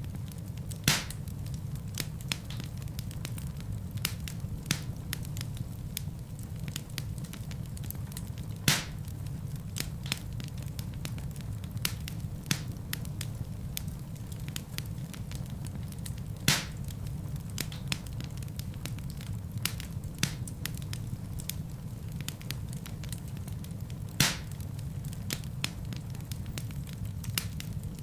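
Wood fire of burning logs in a fireplace crackling steadily: many small pops over a low, even rumble, with four louder sharp pops spaced several seconds apart.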